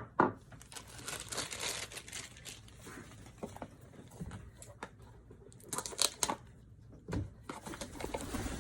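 Packaging of a blind-box collectible being handled and torn open: crinkling and tearing, with a few sharp clicks about six and seven seconds in.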